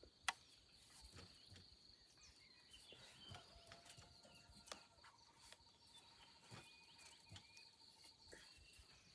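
Faint outdoor ambience: a steady high insect drone with scattered bird chirps, and a long even trill lasting about five seconds through the middle. A single sharp click comes just after the start and is the loudest sound.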